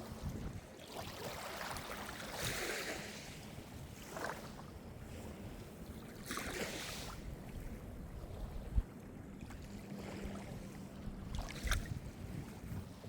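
Small Mediterranean waves washing onto the shore, a hissing wash swelling up every three to five seconds, with wind buffeting the microphone and a sharp low thump a little past the middle.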